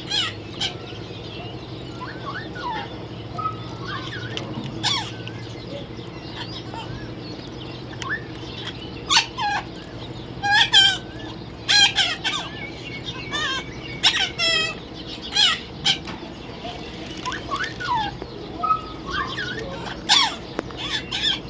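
Parrot calling with repeated short, sharp screeching calls, some in quick pairs, more frequent in the second half, over a steady low hum.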